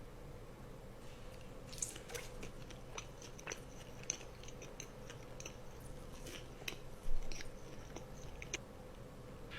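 Close-miked chewing and crunching of food: a person eating, with scattered crisp crunches, the loudest about seven seconds in.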